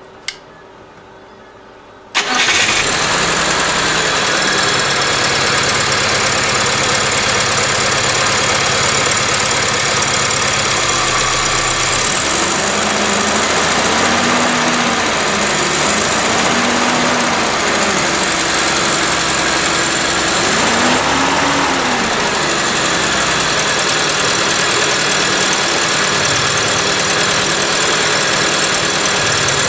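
Freshly rebuilt ZMZ-402 inline-four petrol engine in a GAZelle van started for the first time after its rebuild: a brief click, then about two seconds in the engine catches and keeps running steadily and loudly.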